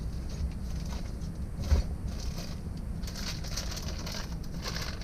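Parts in plastic packaging being handled and rustled while they are taken from a box, with a single thump about two seconds in, over a steady low rumble.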